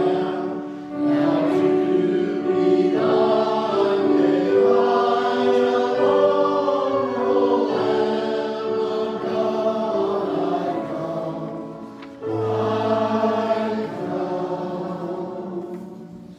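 A hymn sung by a group of voices in harmony with accompaniment, in long held phrases. The last phrase begins a few seconds before the end and dies away as the hymn closes.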